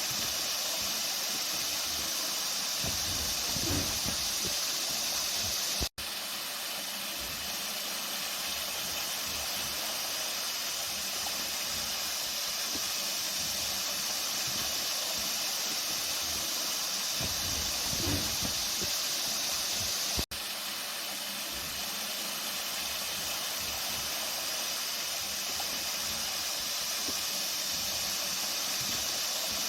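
Flowing water rushing with a steady hiss. The sound cuts out for an instant twice, about six and twenty seconds in.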